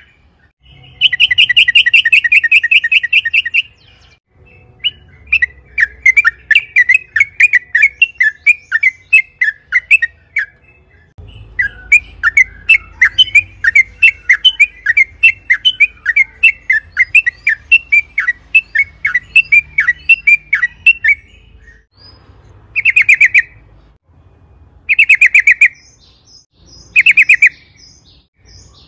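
Yellow-vented bulbul (trucukan) singing: a dense rapid trill, then long runs of quick chattering notes, then three short trills about two seconds apart near the end.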